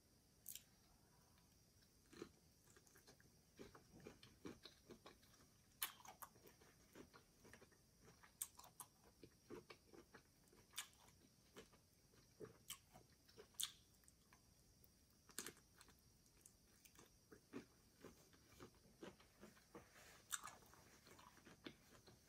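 Faint, close-miked eating sounds of a person chewing shrimp cocktail: irregular wet mouth clicks and smacks, sometimes a few a second.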